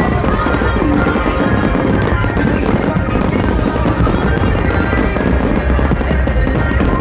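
Fireworks popping and crackling over loud electronic dance music, with crowd voices mixed in.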